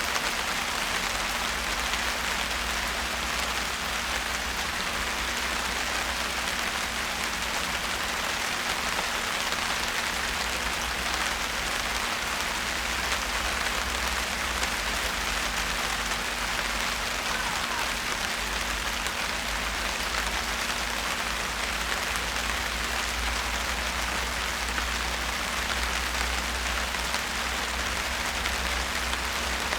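Steady rain falling and pattering on surfaces, an even hiss that keeps the same level throughout, with a steady low hum underneath.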